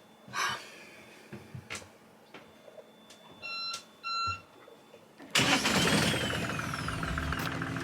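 Two short electronic beeps from the engine control panel, then, about five seconds in, the sailboat's inboard engine starts suddenly and keeps running.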